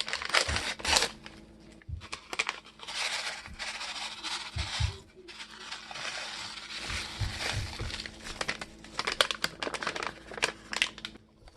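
A packet of dry onion soup mix being handled and torn open, crinkling and rustling through most of the stretch, with a few soft knocks along the way.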